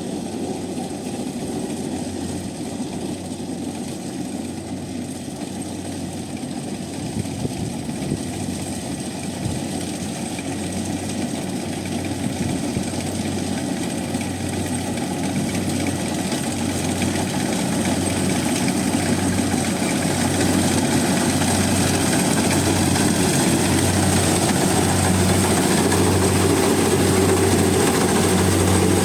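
Combine harvester's engine and machinery running steadily with a thin high whine, growing gradually louder.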